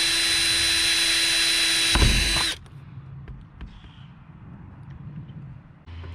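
Power drill running at a steady high speed while drilling a hole, then stopping about two and a half seconds in; a few faint clicks follow.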